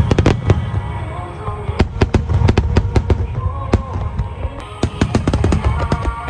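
Fireworks going off: many sharp bangs and crackles in quick succession, in clusters, with music playing underneath.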